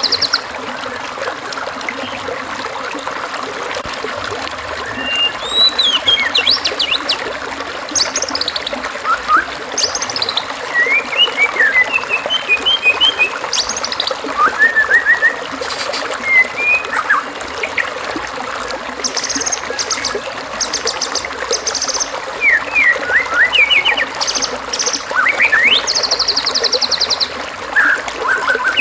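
Recorded songbird phrases, short whistles, chirps and rapid buzzy trills, coming in scattered bursts over a steady background of trickling stream water. It is a masteran track of assorted bird songs played to train a white-rumped shama.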